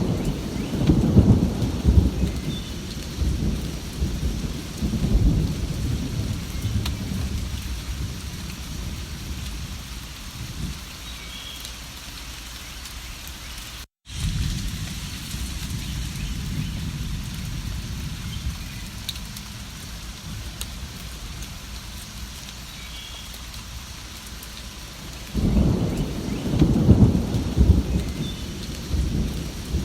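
Steady rain with rolling thunder: a long rumble at the start that dies away over several seconds, and another that builds near the end. The sound cuts out completely for an instant about halfway through.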